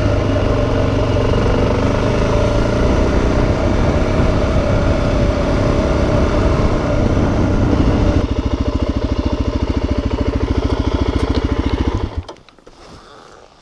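Suzuki DRZ400's single-cylinder four-stroke engine running under way, then dropping to an even, pulsing idle about eight seconds in as the bike stops. The engine is switched off and cuts out suddenly a little after twelve seconds.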